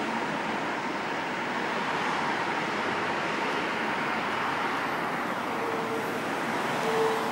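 An approaching electric train rumbling closer along the tracks, over steady road traffic noise. A faint steady tone joins about five and a half seconds in, and the sound swells slightly near the end as the train draws near.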